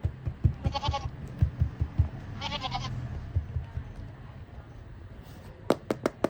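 Recorded animal bleat played twice from a sound-making farm animal toy, each call short and wavering. Low knocks of handling come with it, and there are a few sharp clicks near the end.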